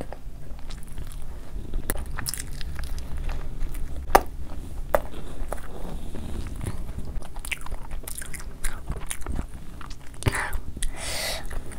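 Close-miked chewing of food, with wet mouth sounds and scattered sharp clicks. Near the end comes a louder crunch lasting about a second.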